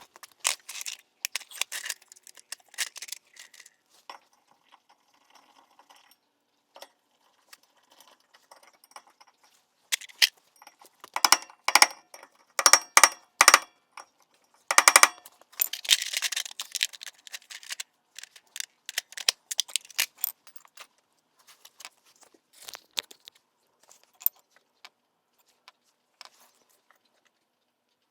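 Hand tools and metal brake parts clinking and clattering as they are handled, in irregular bursts, with a run of loud ringing metallic strikes around the middle.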